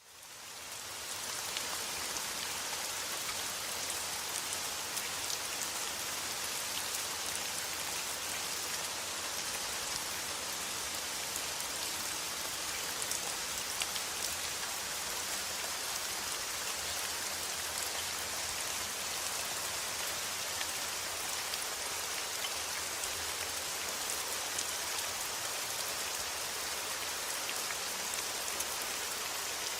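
Steady rain falling, a dense even hiss peppered with fine drop ticks, fading in over the first second.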